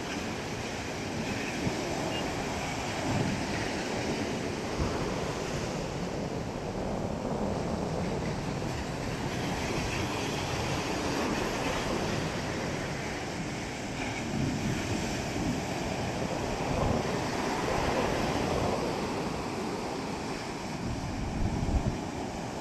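Ocean waves breaking and washing on the shore, a continuous surf wash that swells and eases, with wind buffeting the microphone in low thumps.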